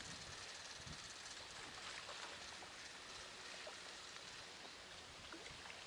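Quiet riverbank ambience: a faint, steady hiss of wind and water, with a few soft ticks.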